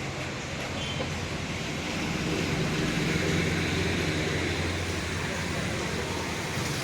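Motorboat engine running steadily under way, a low hum over the rush of water.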